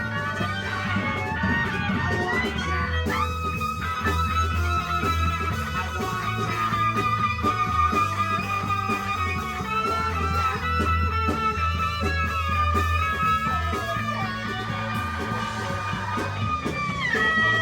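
A rock band playing an instrumental passage live: guitar holding long, bending high notes over a pulsing bass line, with a downward slide near the end.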